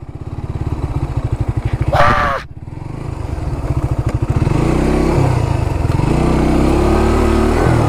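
Motorcycle engine idling with an even putter, then given throttle from about four seconds in, its pitch rising and falling as the bike pulls slowly through tall grass.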